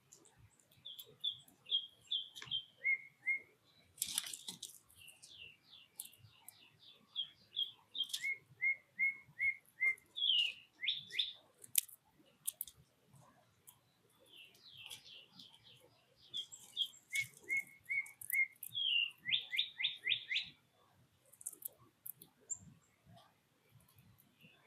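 A songbird singing two long phrases of short, repeated whistled notes, some high, some lower and some rising, with a short pause between the phrases.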